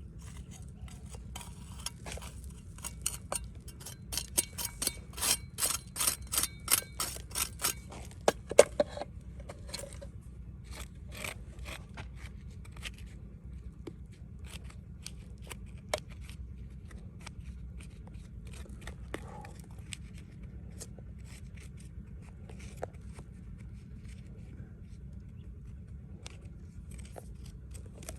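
Scraping and crunching strokes of digging in soil and stones: a run of quick strokes at about two a second for several seconds, then scattered clicks and scrapes, over a steady low rumble.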